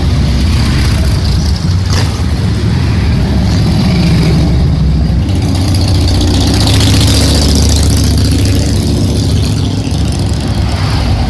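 Motorcycle engine running steadily at a low, even pitch.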